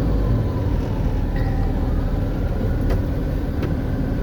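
Steady engine and road rumble inside the cab of a moving truck, with a couple of faint clicks about three seconds in.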